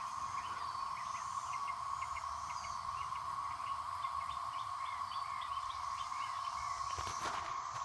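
A dense chorus of cicadas in the trees, a steady drone held at one pitch, with scattered short chirps over it.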